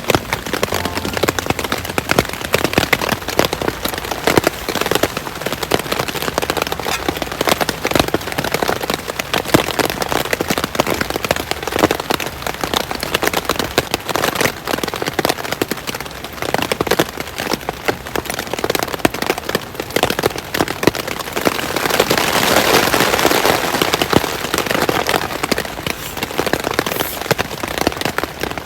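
Rain falling, many drops tapping close by in a dense, uneven patter; it swells louder for a few seconds about three-quarters of the way through.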